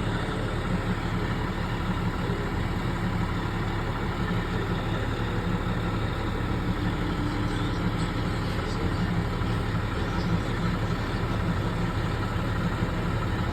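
Crane's engine running steadily at a constant speed, a low, even hum.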